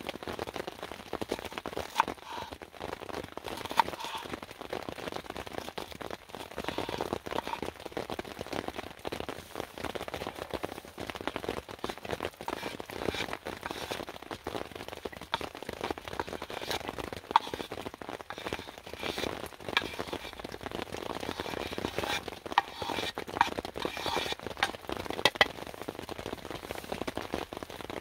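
Rain falling and water dripping, a steady patter of small taps with an occasional sharper, louder drip.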